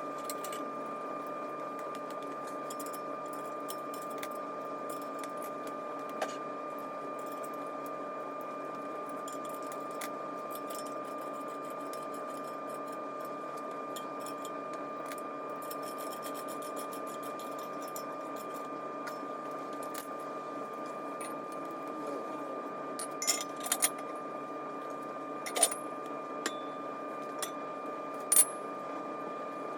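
Steel engine stand parts clinking and tapping against each other as the stand is put together by hand, with several sharp metal clinks close together near the end. Under it runs a steady hum with a constant high-pitched whine.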